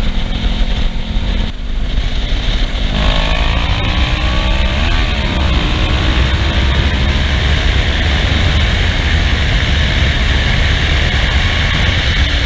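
Kawasaki Ninja 650R parallel-twin engine on the move: the engine note drops about a second and a half in at a gear change, climbs as the bike accelerates, then holds steady at cruising speed. Heavy wind rush on the mic runs under it.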